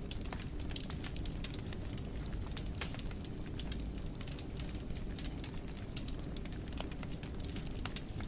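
Wood fire crackling in a fireplace: frequent sharp snaps and pops, several a second, over a steady low rumble of the flames.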